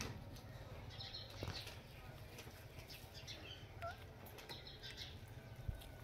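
Faint, scattered short bird chirps over a steady low background rumble.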